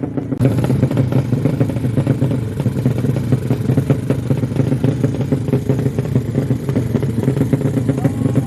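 Motorcycle engine idling low and steady, its firing heard as a rapid, uneven putter with some clatter.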